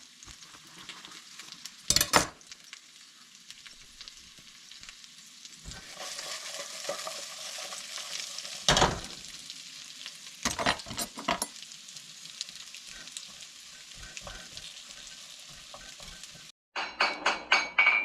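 Onions and ribs sizzling as they fry in a pan, the hiss growing louder about six seconds in. A utensil stirs and knocks against the pan several times. Near the end the sizzle cuts off suddenly.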